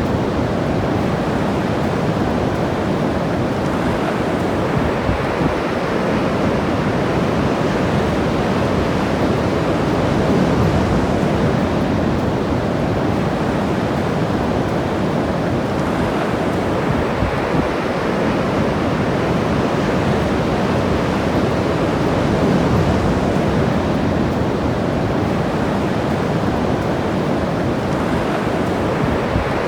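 Ocean surf washing steadily on the shore, swelling slightly now and then.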